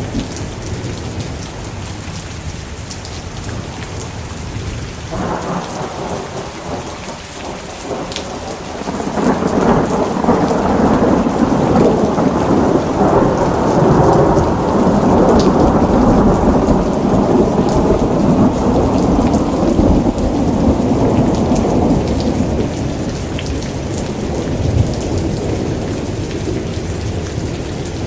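Steady rain with a long rolling thunder rumble. The rumble swells about a third of the way in, holds for around ten seconds, then slowly dies away.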